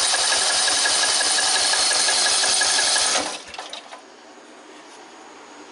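Briggs & Stratton 14.5 hp lawn tractor engine spun over by its starter during a compression test, the plug out and a compression gauge in its hole: a fast, even chugging that stops about three seconds in. The gauge reads 120 psi, which the owner takes as healthy compression.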